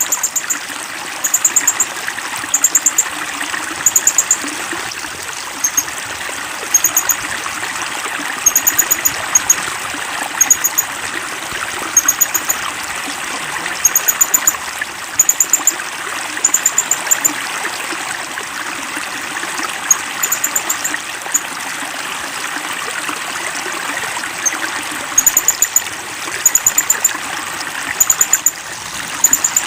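A small songbird's high, sharp chirps in quick runs of three or four notes, repeated every second or two, over steady running water like a stream.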